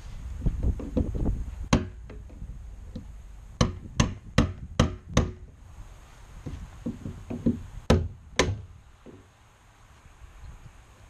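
A series of sharp knocks: one, then five in quick succession about two or three a second, then two more near the end, with lower rustling and handling noise between them.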